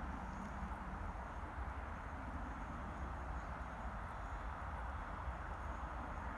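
Quiet, steady outdoor background noise with a low rumble of wind on the microphone.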